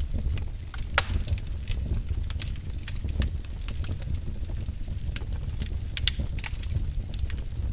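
Wood fire burning in a fireplace, crackling with irregular sharp pops and snaps over a steady low rumble; one louder pop about a second in.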